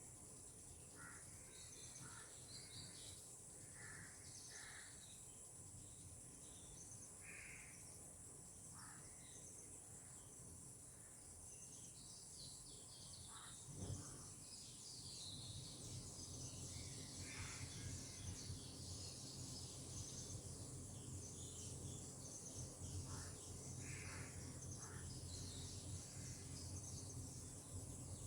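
Faint outdoor ambience: a steady high insect drone with scattered short bird calls. A single knock comes about halfway through, followed by a low rumble.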